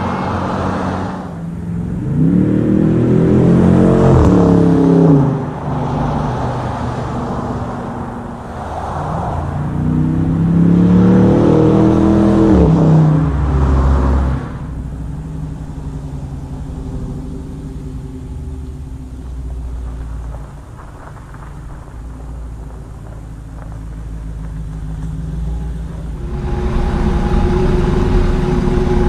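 Dodge Challenger R/T's 5.7-litre HEMI V8 through a Mopar cat-back exhaust, revving up and falling back twice. It then runs steadily at lower revs and gets louder again near the end.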